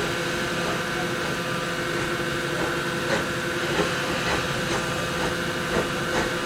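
Steady mechanical hum and hiss with a few held tones, and faint clicks scattered through it, from a train standing at a station platform.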